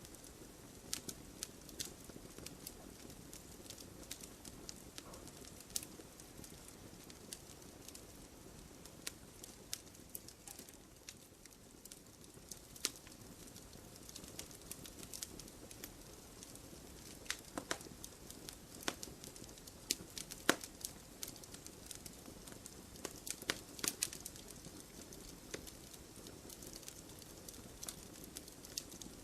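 Wood fire crackling: a steady low hiss of burning wood with irregular sharp pops and snaps, several bunched together at times.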